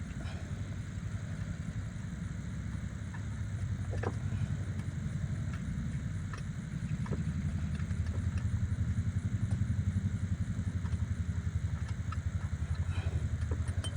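A steady low rumble that pulses evenly, like an idling engine, a little louder in the second half, with a few light clinks scattered through.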